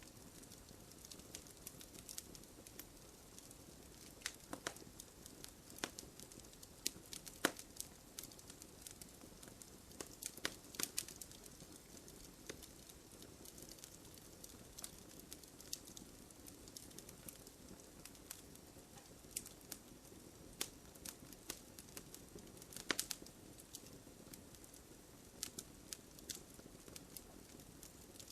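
Wood fire burning, with scattered sharp pops and crackles over a soft steady hiss.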